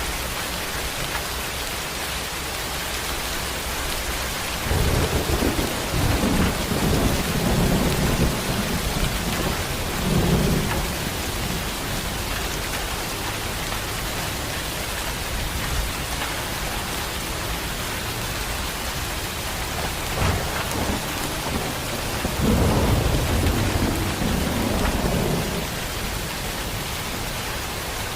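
Heavy rain falls steadily, with two long low rolls of thunder: one starting about five seconds in and lasting several seconds, another about twenty-two seconds in.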